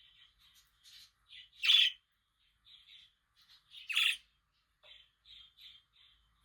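Budgerigar chirping in a quick string of short calls, broken by two loud, harsh squawks about two seconds apart.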